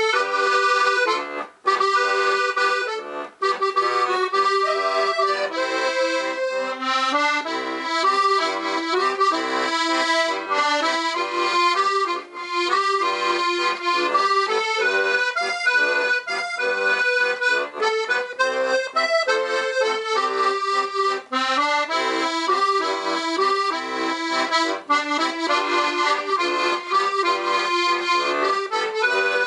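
Weltmeister Monte piano accordion played on its 3-reed musette register: a tune with bass and chords, each treble note sounding on three reeds tuned slightly apart so that it beats with the wet, wavering musette tone.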